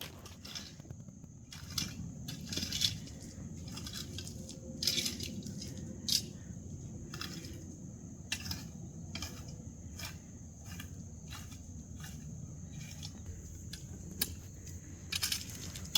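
Gravel being raked: a rake scraping over loose stones with irregular scrapes and clinks, over a low steady rumble.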